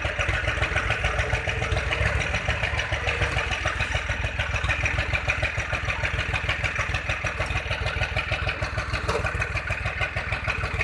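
Diesel tractor engine running steadily with a fast, even chugging pulse.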